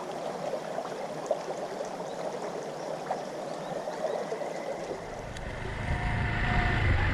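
Steady rush of a flowing stream. About five seconds in, a low rumble comes in and grows louder.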